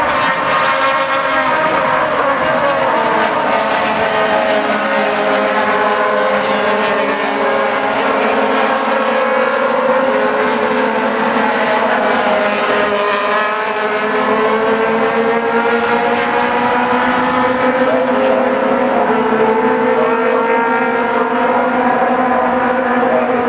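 Engines of a pack of Aussie Racing Cars running together, several engine notes held and drifting slowly up and down as the cars lap.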